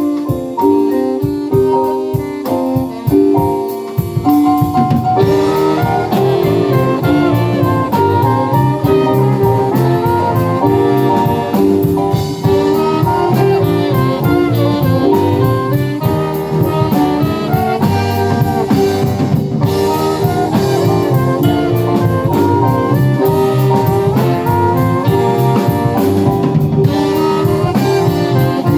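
Live band playing an upbeat pop song: the opening is sparser, then the full band with drum kit comes in about five seconds in and plays on steadily.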